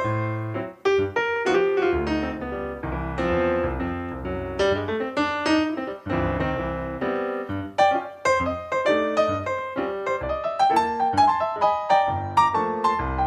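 Background piano music: a steady flowing melody with chords.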